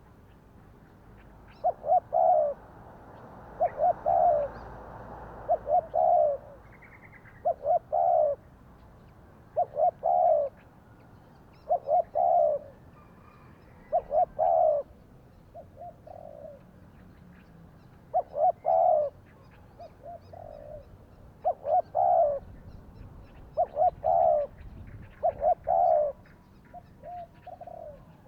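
Spotted doves cooing: loud phrases of two or three low coos come about every two seconds. Fainter phrases from a second dove fall between them in places.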